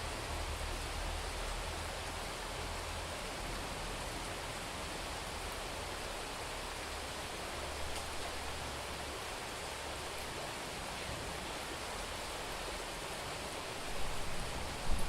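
Steady heavy rain pouring on a street, with a low rumble of distant thunder at times and a few louder low thumps near the end.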